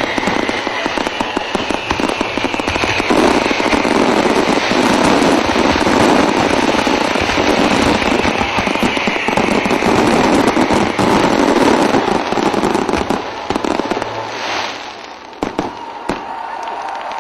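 Dense barrage of fireworks: rapid crackling and bangs with whistling shells, as at a display's finale. It thins out near the end to a couple of last bangs.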